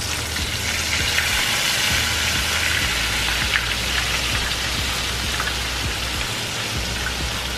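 Flour-dredged chicken breasts shallow-frying in butter and olive oil in a skillet: a steady, even sizzle with small crackles.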